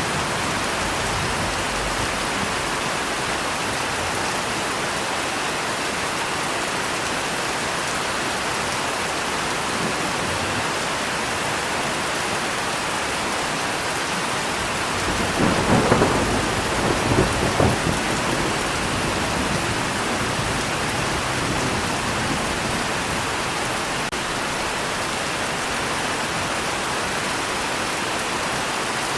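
Steady rain falling, with a roll of thunder rumbling up about halfway through, swelling twice before it fades back into the rain. The thunder is the loudest moment.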